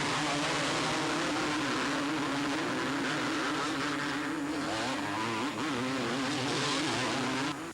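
Two-stroke motocross bikes racing, engines revving up and down as they are ridden around the track. The sound cuts off abruptly near the end.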